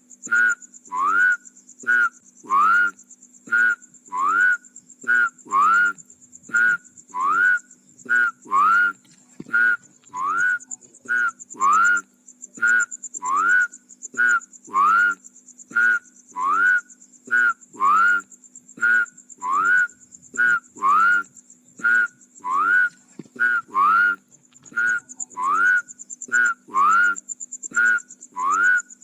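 Rice-field frogs (katak sawah) calling loudly. They give paired calls about every second and a half: a short note and then a longer note that rises in pitch. A steady high trill and a low drone run underneath.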